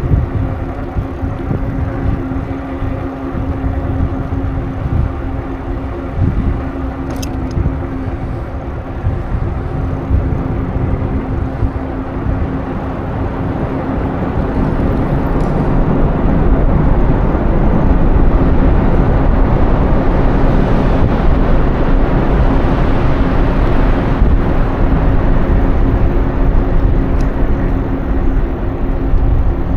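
Wind rumbling on the microphone of a moving bicycle, over a steady low hum, growing louder about halfway through.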